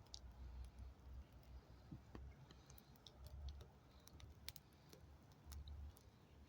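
Faint wood fire crackling: scattered small irregular pops and clicks, over a faint low rumble.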